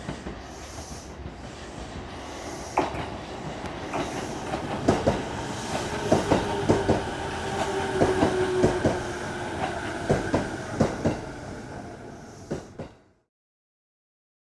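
E233-series electric train running by, its wheels clacking over rail joints and points in a quick, uneven series of sharp clicks, with a thin squeal under them. The sound cuts off abruptly about thirteen seconds in.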